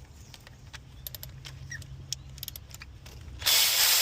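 Light clinks and rattles of hand tools and parts being handled in an engine bay. About three and a half seconds in, a loud, steady hiss starts abruptly.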